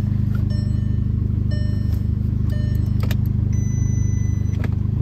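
Volkswagen Tiguan's 2.0 TSI turbocharged four-cylinder idling steadily after a remote start. Over it the dashboard chime beeps about once a second; after a click about three seconds in, a different, higher chime tone takes over.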